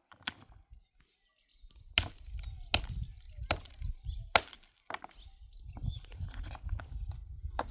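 Wood being chopped: four sharp strikes about a second apart, followed by softer knocks. A low rumble runs underneath.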